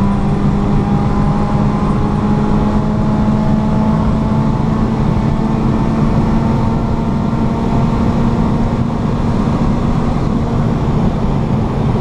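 Car engine heard from inside the cabin, pulling hard in one gear with its pitch climbing slowly, over road and wind rumble.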